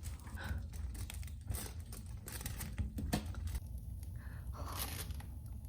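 Faint crackling with scattered light clicks from a wood-burning stove while hotteok cook on it, over a steady low hum.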